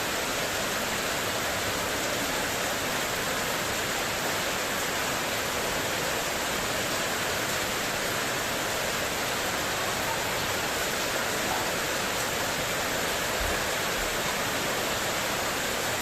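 Heavy rain in strong wind, falling steadily on spandek metal roof sheeting.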